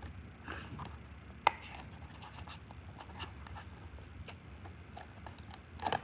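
Cardboard and plastic packaging of a blind box being handled and opened: scattered small clicks and rustles, a sharp snap about one and a half seconds in, and a louder crinkle near the end.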